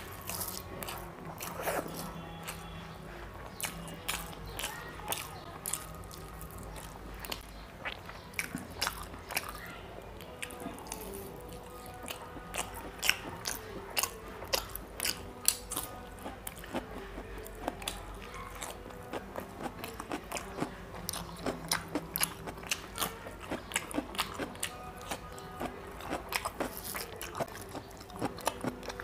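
Close-miked mouth sounds of a man eating chicken curry with rice by hand: wet chewing and crunching, with many sharp clicks and smacks that come thicker in the second half.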